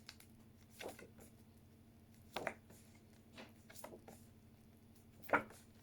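Faint rustles and taps of paper flashcards being shuffled and handled, four short soft sounds spread over several seconds against quiet room tone.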